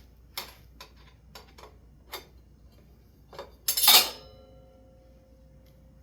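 Small metal clicks and taps, then one loud metallic clank just before the four-second mark that rings on with a steady fading tone.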